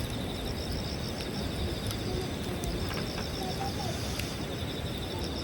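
Night insects chirping steadily in rapid, even pulses at two high pitches, over a low steady noise with a few sharp crackles from the campfire.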